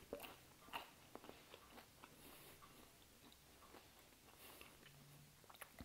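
Quiet chewing of a mouthful of microwave fries with pulled-pork topping: a few soft crunches in the first second or so, then fainter chewing.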